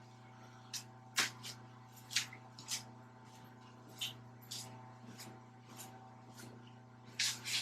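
Irregular sharp clicks and metallic taps from hand tools and fittings as hydraulic hoses are worked loose on a compactor roller, about a dozen over several seconds with a quick cluster near the end, over a steady low hum.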